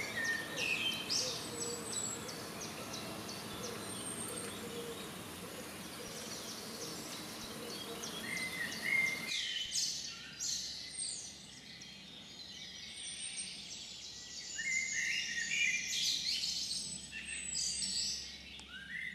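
Birdsong: small birds chirping and twittering, repeated short high calls, over a faint steady background noise. About halfway through, the low background noise cuts out abruptly while the birds keep calling.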